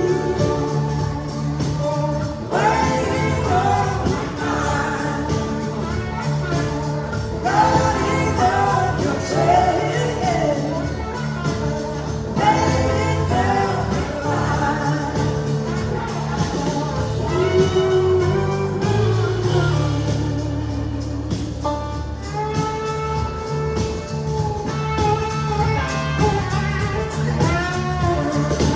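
Live blues-rock band playing with a singer, guitar and a full band.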